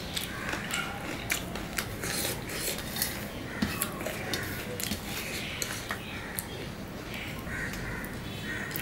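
Close-up wet chewing and lip-smacking of juicy pomelo pulp, with many sharp smacks and clicks coming irregularly throughout.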